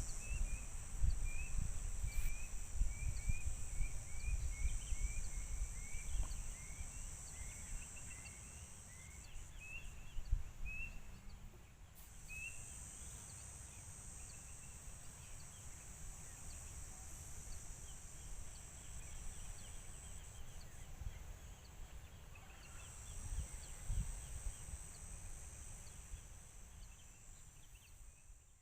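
A bird calling a rapid series of short, falling chirps, about two a second, that thins out after the first ten seconds, over a steady high insect drone that breaks off briefly twice. A low rumble sits underneath, loudest at the start.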